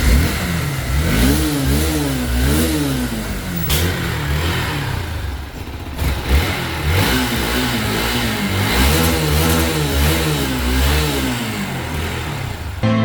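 Hero XPulse 200 Rally Edition's single-cylinder engine revved up and down again and again, in two spells of quick rises and falls in pitch.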